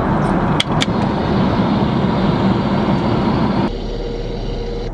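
Steady jet airliner cabin roar. Two sharp clicks come about half a second in, as the seat's motorized drinks compartment is worked. Near the end the sound changes abruptly, losing its upper range.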